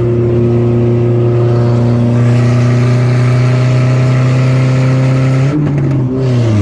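Very loud car engine held at steady revs. About five and a half seconds in, the note wavers and falls as the revs drop.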